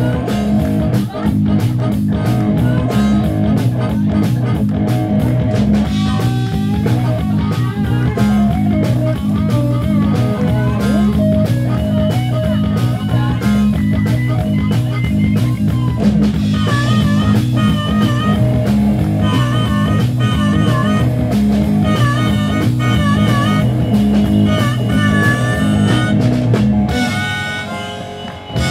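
Live rock band playing a bluesy number: guitar over a steady drum and bass groove, with a wavering high melody line joining about halfway through. The music dies down near the end.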